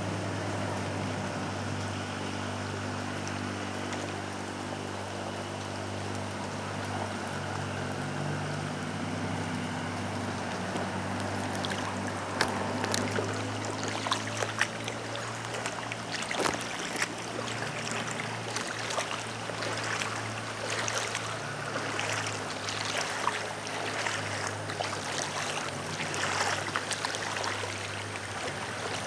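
Floodwater splashing and trickling over a steady low motor-like hum; the splashes grow busier and louder about halfway through.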